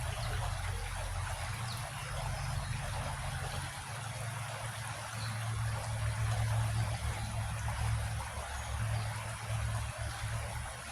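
A creek flowing over rocks, a steady trickling rush of water. A low, uneven rumble sits underneath and swells for a few seconds mid-way.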